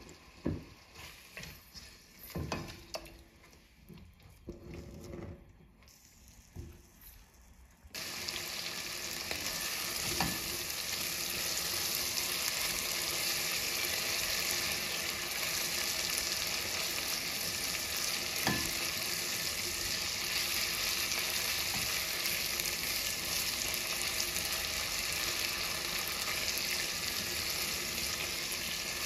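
Chicken pieces in masala frying in oil in a nonstick pot, stirred with a silicone spatula. The first seconds hold scattered scrapes and knocks; about eight seconds in a steady, loud sizzle starts suddenly and carries on, with an occasional spatula knock. This is the stage of frying on medium flame until the oil separates from the masala.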